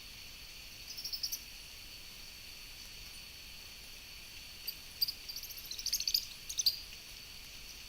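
Steady high-pitched insect trill, like crickets, in the forest, with short bursts of rapid chirps about a second in and again from about five to seven seconds in.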